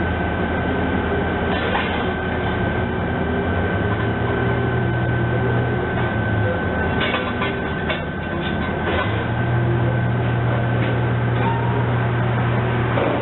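Train running on the rails: a steady low drone with a constant higher tone, and a short cluster of clattering clicks about halfway through.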